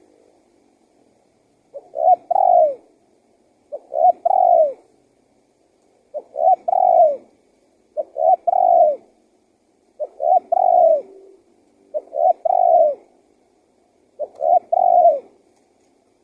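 Male spotted dove (tekukur) cooing its song: seven phrases repeated about every two seconds. Each phrase is a short note followed by longer notes that fall in pitch.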